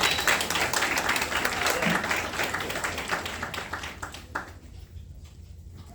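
Audience applauding in a concert hall after the announcement of the next piece. The clapping fades out over the last couple of seconds.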